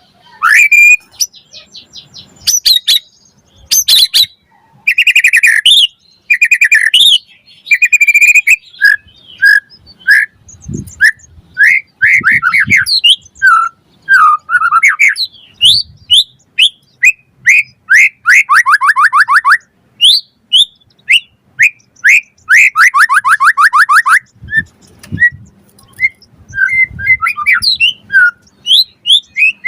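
White-rumped shama (murai batu) singing a loud, varied song of short whistled phrases and sweeping notes, with two fast rattling trills in the second half.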